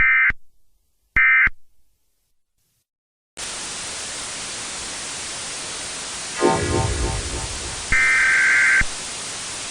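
The last two of three short EAS end-of-message data bursts, each about a third of a second and a second apart, with an echoing tail. After a couple of seconds of silence a steady static hiss starts, with dark droning music tones sliding in about three seconds later and a brief high electronic buzz near the end.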